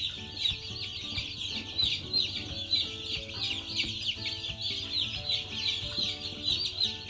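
A large flock of day-old Cornish Cross broiler chicks peeping all at once: a dense, continuous chorus of high, short peeps that slide downward in pitch.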